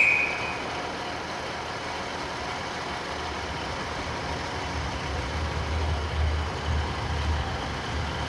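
The end of a platform dispatch whistle in the first half-second, then the diesel engine of a departing diesel multiple unit running, a low rumble that builds from about three seconds in as the train pulls away.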